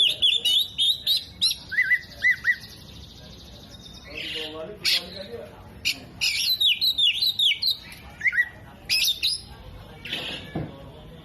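Oriental magpie-robin (kacer) in full song: a loud, varied run of sharp repeated chirps, quick downslurred notes and short whistled phrases, the kind of song that mixes in mimicked calls of other birds.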